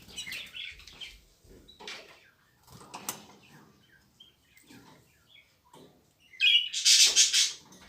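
Young cage birds chirping in short scattered calls, with small pecking clicks and a louder, busier burst of calling about six seconds in.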